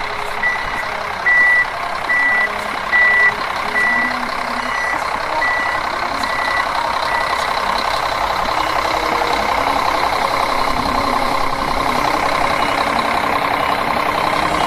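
A vehicle's reversing beeper sounding short, even beeps about once every 0.8 seconds, fading out about halfway through, over the steady running of an engine that carries on to the end.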